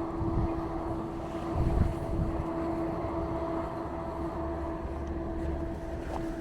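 City street traffic with a steady low rumble and a constant mid-pitched mechanical hum, such as an idling vehicle or machinery running.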